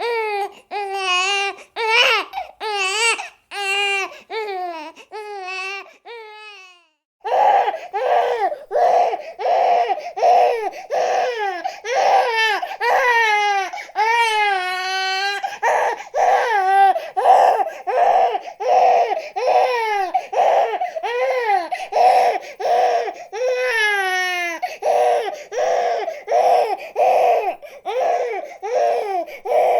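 Infant crying in repeated wailing cries. About seven seconds in, after a brief pause, a different recording takes over, with quicker, more insistent cries of about two a second.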